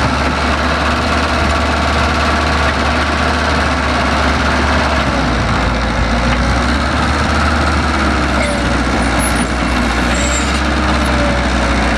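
Heavy diesel construction machinery running steadily, a constant low engine hum with no break.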